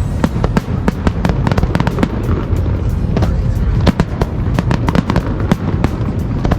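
Fireworks display going off: a rapid, irregular run of sharp bangs and crackles, several a second, over a continuous low rumble.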